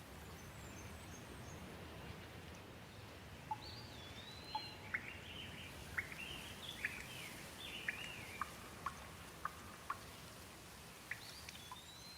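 Gentle rain falling steadily, with single large drops dripping close by from about three seconds in. A bird calls with short gliding notes through the middle and again near the end.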